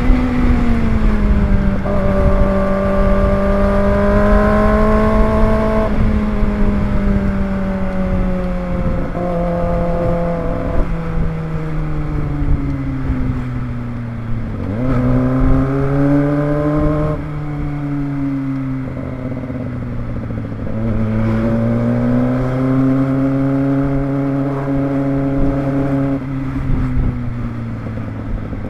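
Kawasaki ZX25R's inline-four engine running while riding. Its pitch rises and falls with the throttle and changes in sudden steps several times, with a deep dip and climb about 15 seconds in.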